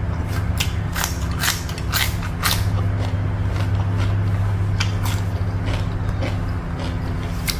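Close-miked crunchy chewing of crisp food, about two crunches a second, over a steady low hum.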